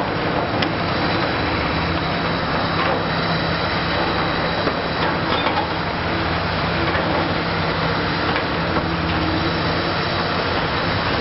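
Diesel engine of a Liebherr R 960 high-reach demolition excavator running steadily with a constant low hum, a few faint knocks heard over it.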